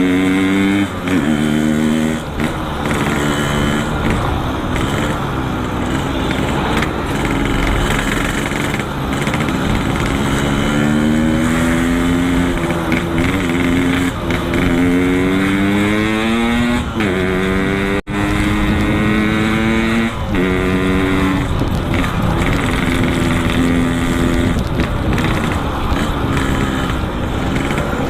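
Yamaha RX-King two-stroke single-cylinder engine running through a Boban C33 aftermarket exhaust while riding. The engine accelerates through the gears, its pitch climbing and then dropping back at each shift, several times over.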